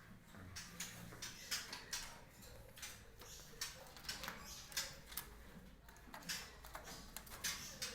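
Faint, irregular clicks and scratches, several a second, from a full stock of caged hill mynas moving about.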